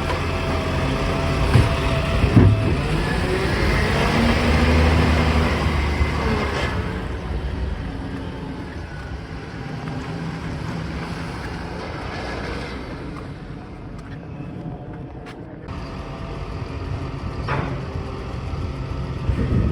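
Garbage truck running, its engine pitch rising and falling during the louder first seven seconds, then quieter and steadier. A few sharp knocks, two near the start and two near the end.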